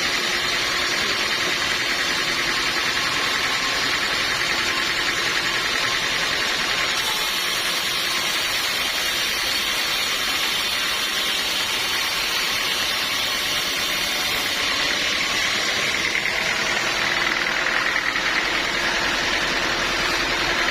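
A sawmill running steadily, a continuous machine noise with no pauses or breaks.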